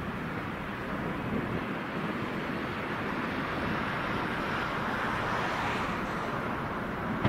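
A train rolling past: a steady rushing rumble of wheels on rails that slowly grows louder, swelling about five seconds in.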